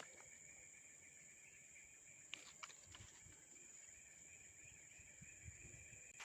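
Faint outdoor ambience: a steady high insect drone, with a few soft clicks a couple of seconds in.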